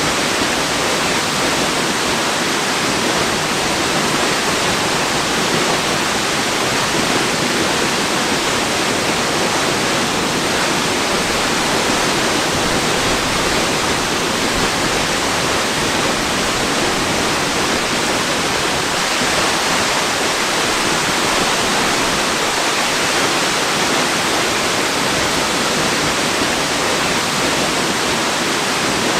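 Waterfall, water falling steadily in an even, unbroken rush.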